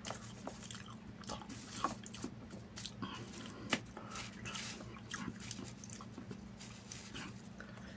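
Close mouth sounds of a person eating chicken biryani by hand: chewing with scattered short clicks and smacks. A steady low hum runs underneath.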